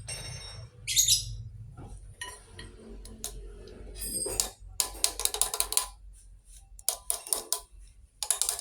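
Metal tools and engine parts clinking and rattling in several short bursts, with a brief high ringing clink about a second in.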